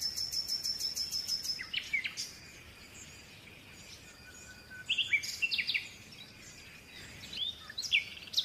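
Small birds chirping: a rapid high trill for the first two seconds, then scattered short chirps that fall in pitch, around two, five and eight seconds in.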